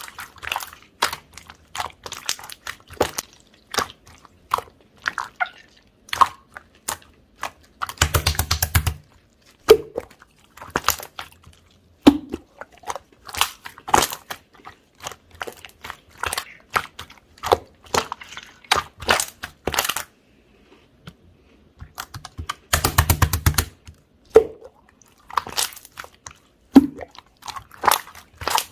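Chewy jelly slime squished and poked by hand, making irregular sticky clicks and pops. Twice, about a second of dense popping with a low thud as the slime is pressed hard.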